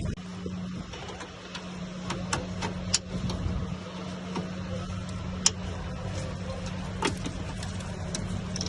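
Scattered sharp metal clicks and taps of hand tools and parts being worked on a Toyota Prius hybrid battery pack during reassembly, over a steady low hum.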